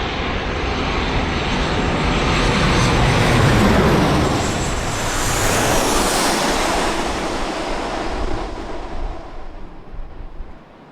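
Jet airliner passing close by: engine noise builds to a peak about four seconds in, a high whine drops in pitch as it goes past, and the noise fades away near the end.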